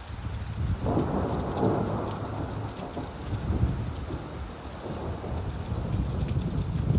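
Steady rain with a low, rolling rumble of thunder that swells about a second in and fades back over the next few seconds.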